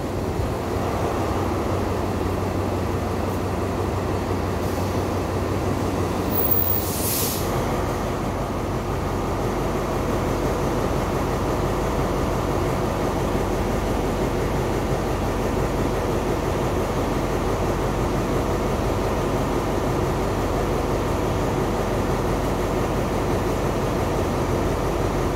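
Diesel-hauled passenger train running with a steady low hum. A brief hiss comes about seven seconds in, and after it the low rumble grows stronger.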